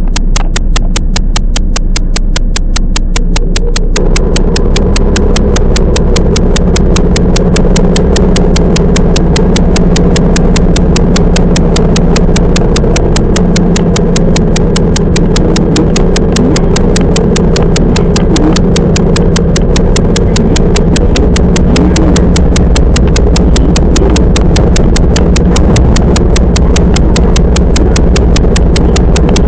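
Toyama Chiho Railway 10030 series electric train running, heard from inside the car: a steady running hum with a fast, even clicking of about four clicks a second throughout.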